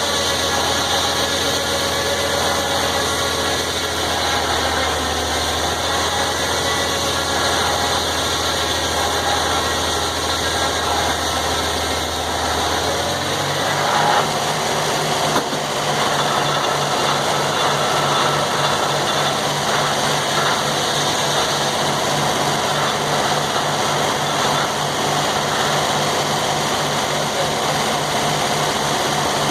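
Sawmill running, its engine droning steadily; about 13 seconds in the deep low drone drops away and a pulsing hum takes over.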